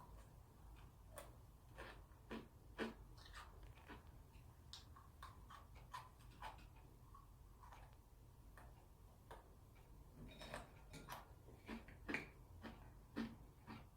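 Faint, irregular crisp clicks and crunches of someone chewing strawberry Pepero biscuit sticks.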